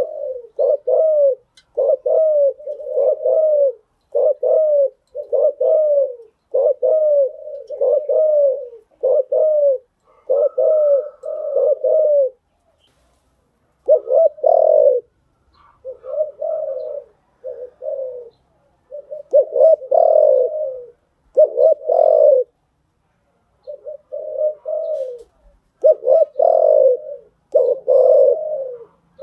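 Spotted dove cooing: runs of short, repeated coo notes broken by brief pauses, with a gap of about a second near the middle and another a little past two-thirds of the way through.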